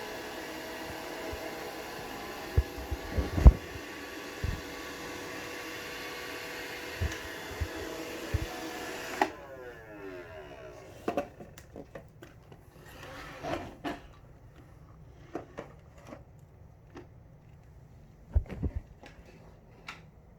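Roomba robot vacuum whirring steadily with several sharp knocks as it bumps around trying to dock. The motor noise cuts off abruptly about nine seconds in, leaving scattered clicks and taps.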